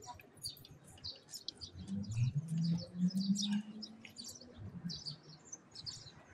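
Small birds chirping again and again in short high notes, with a low steady hum that rises a little as it starts, from about two seconds in to nearly five seconds in.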